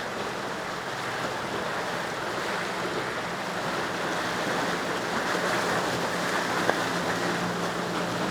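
Surf and waves washing steadily at an inlet, with wind on the microphone. Under it runs a low, steady boat-engine hum that grows stronger in the second half. There is one brief click a little before the end.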